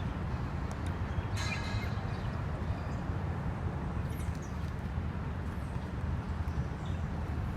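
A cat mewing briefly, a short high call about a second and a half in, over a steady low rumble.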